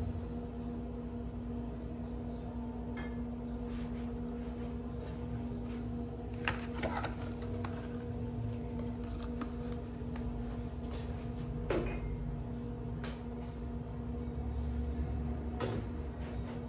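Indoor handling sounds: scattered light knocks, clicks and rustles over a steady low hum, with a few sharper knocks about six and twelve seconds in.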